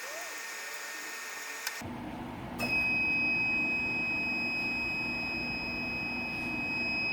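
A single long, steady high-pitched electronic beep starts about two and a half seconds in and holds for about five seconds over a low background hum.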